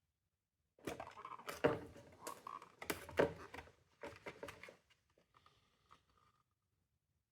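Hard plastic parts of a window vacuum cleaner clicking, knocking and scraping as they are handled and pried apart, a busy run of sharp clicks for about four seconds that then thins out.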